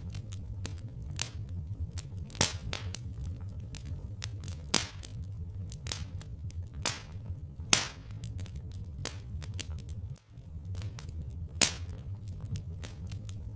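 Log fire crackling, with irregular sharp pops of varying loudness over a steady low rumble.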